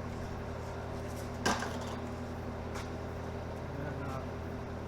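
Steady low hum in the workshop with one sharp, hard clack about a second and a half in, and a faint tick a little later: parts or tools being handled during pipe-cutting work.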